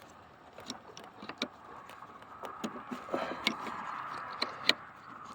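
Plastic electrical connectors and wires of an engine wiring harness being handled and fitted by hand: a series of light, irregular clicks and rattles. A faint steady hum sits underneath from about two seconds in.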